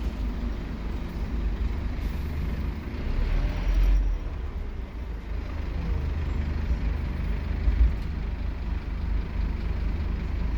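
Scania K230UB Omnilink bus heard from on board: the diesel engine and road noise run as a steady low rumble, swelling louder a few seconds in. There is a sharp knock near the end.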